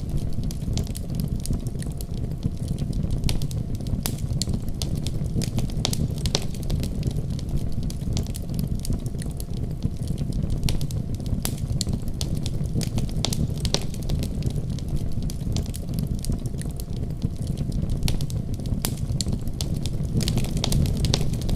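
Wood fire burning steadily in a fireplace, with a low rumble of flames and frequent irregular sharp crackles and pops.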